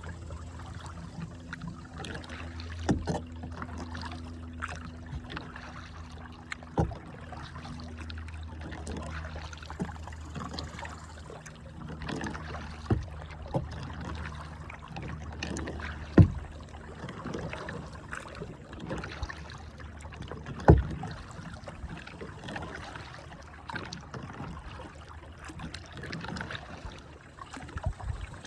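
Kayak paddling: water splashing and dripping from the paddle, with several sharp knocks of the paddle against the kayak's hull, two of them louder about two-thirds of the way through. A low steady hum runs under the first half.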